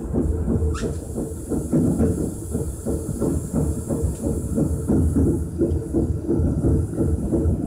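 Keisei 3050-series electric train running along the line, heard from inside the front car: an uneven low rumble with a faint steady hiss above it.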